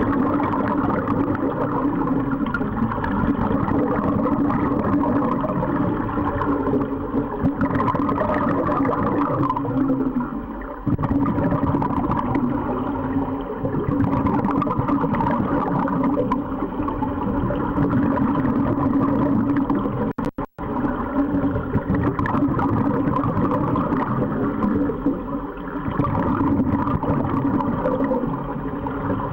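Underwater sound in an aquarium tank: a steady low hum with continuous water noise. The sound drops out very briefly about two-thirds of the way through.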